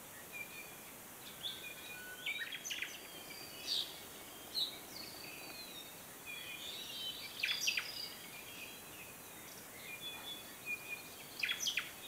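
Small songbird nestlings begging in a tree-cavity nest: thin, high chirps and squeaky calls that come in clusters, with the loudest bursts about a third of the way in, in the middle and near the end.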